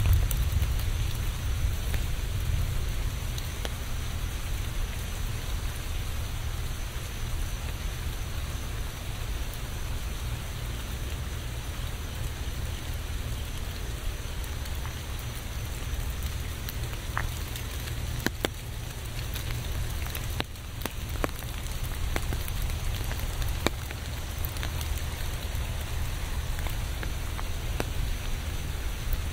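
Steady rain falling, an even hiss with scattered sharp drop ticks. A low rumble fades away over the first few seconds.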